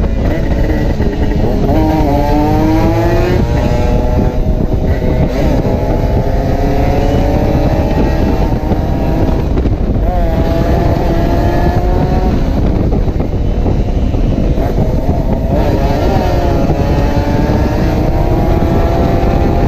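Kawasaki Ninja 150 two-stroke single-cylinder engine pulling hard under acceleration, its pitch climbing and then dropping at each gear change several times, over heavy wind noise on the microphone.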